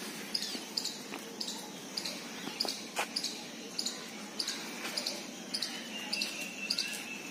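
A small bird repeating a short, high chirp about two to three times a second, over steady low background noise.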